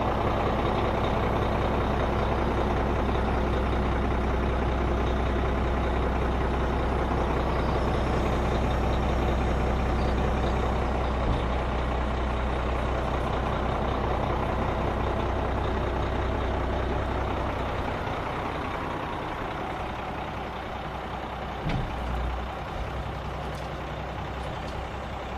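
Diesel engine of a 2000 International 2674 plow truck running steadily, getting a little quieter about two-thirds through, with a brief low thump near the end.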